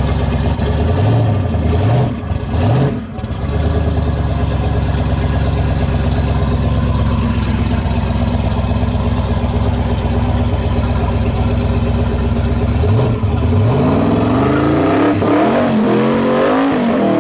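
Loud car engine running steadily, revved up briefly about a second in and again several times near the end.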